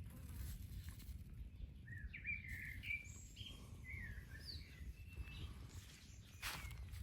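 A songbird singing a few quick, twittering chirps for about three seconds, over a steady low rumble of wind on the microphone.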